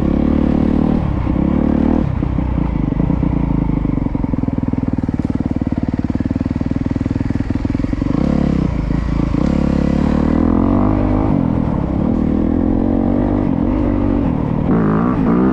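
Honda CRF250R dirt bike's single-cylinder four-stroke engine running as it is ridden, its pitch rising and falling with throttle and gear changes and climbing again near the end.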